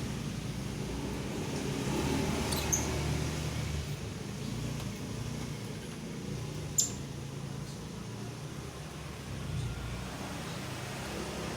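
Lovebird giving two brief high chirps, a few seconds apart, over a steady low background hum.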